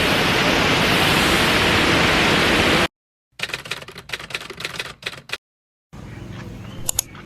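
A waterfall rushing loudly and steadily for about three seconds, then cut off abruptly. After a short silence comes a couple of seconds of rapid clicking and crackling, then another gap, then quieter outdoor ambience with one brief sharp sound near the end.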